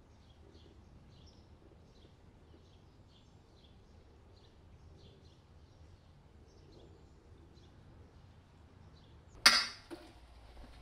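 Birds chirping faintly and repeatedly over quiet outdoor ambience. About nine and a half seconds in, a sudden loud, sharp crackle, the loudest sound, dies away within half a second, followed by a smaller knock.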